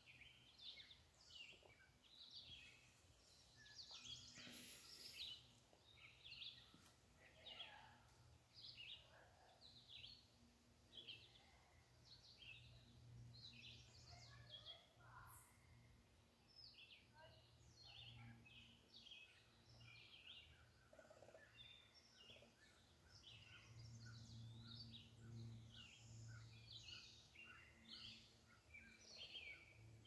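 Wild songbirds chirping and singing, many short overlapping calls throughout, faint. A low steady hum swells and fades underneath.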